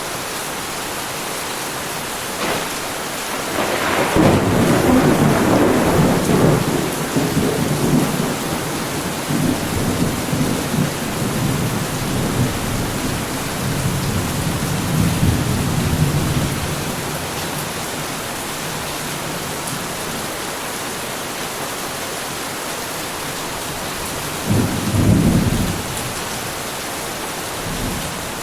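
Heavy rain falling steadily, with a long rolling thunderclap that cracks in a few seconds in and rumbles on for about twelve seconds before fading, then a second, shorter rumble of thunder near the end.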